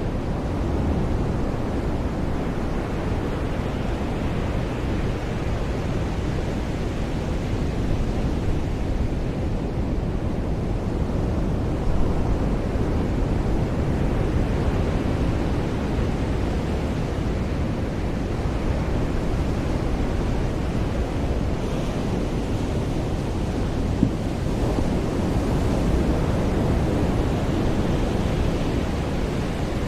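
Ocean surf washing onto a beach: a steady rush of breaking waves that slowly swells and eases, with low wind rumble on the microphone.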